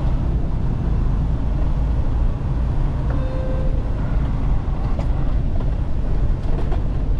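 Semi truck's diesel engine and road rumble heard inside the cab as it rolls slowly across a rough lot, with a few light rattles.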